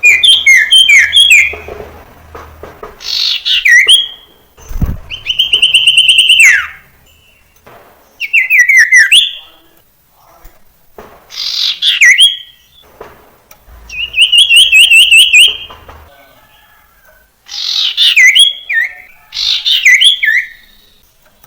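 Common iora (sirtu) singing: about eight loud separate phrases of whistled notes, quick down-sweeps and rapid trills, with short pauses between them.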